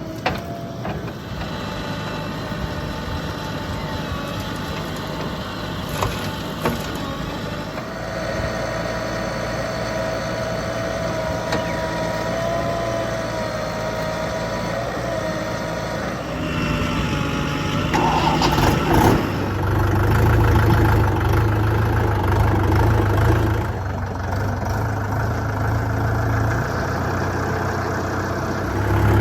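Heavy diesel machinery engine running steadily, with a wavering whine over it in the first half; about two-thirds of the way through the engine gets louder and deeper, as if put under load or brought closer.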